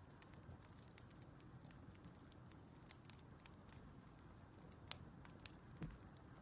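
Faint crackling of a burning wood fire: irregular small pops and snaps over a low steady rumble, with a few louder pops about five seconds in and a low thud just before the end.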